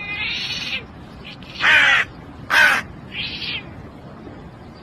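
A bird giving four short, harsh calls, the two in the middle the loudest.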